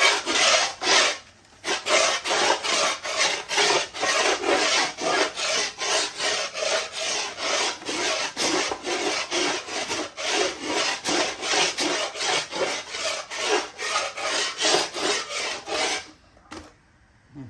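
Quick rasping strokes, about three a second, rubbing along the edge of a skateboard deck to shave down the grip tape overhang. The strokes stop near the end.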